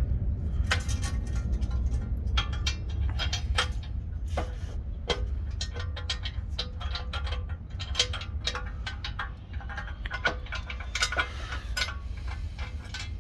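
Irregular metallic clicks and knocks over a steady low rumble, as a floor jack and jack stands are worked and positioned under a pickup truck.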